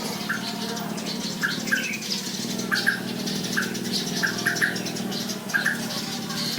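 Several wild songbirds chirping, with short sharp calls repeating irregularly over a steady low background hum.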